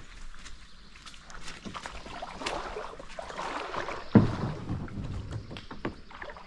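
Knocks and clatter of kayak gear being handled, with a rushing noise in the middle and one loud thump about four seconds in.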